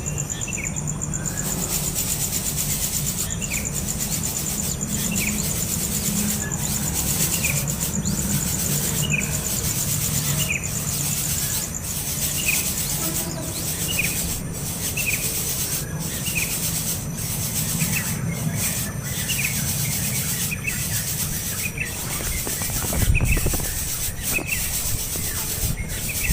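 A young bird calling over and over in short, rising chirps, about one every second or two, coming faster in the second half. A couple of low thumps fall near the end.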